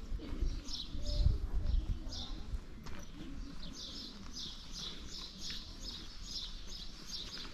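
Small birds chirping over and over in quick clusters of short high notes, thickest in the second half. A low rumble swells about a second in and is the loudest sound.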